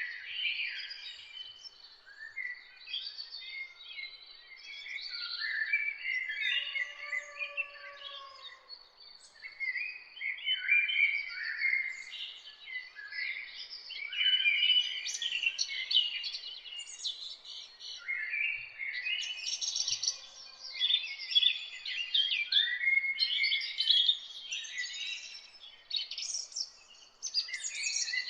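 Several songbirds singing and chirping at once, a dense overlapping chorus of quick high calls, with a faint steady high-pitched tone beneath.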